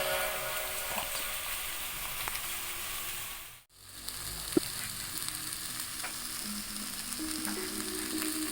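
Goat meat, onions and potatoes frying in oil in a pot: a steady sizzle, with a few light clicks, that drops out briefly a little before halfway.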